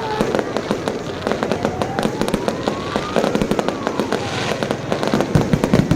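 Fireworks display: a dense run of bangs and crackling pops, with whistling rockets rising in pitch over a second or two.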